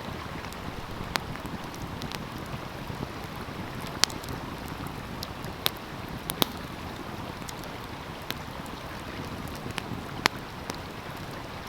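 Wood fire crackling, with sharp pops at irregular moments, over the steady rush of a flowing stream.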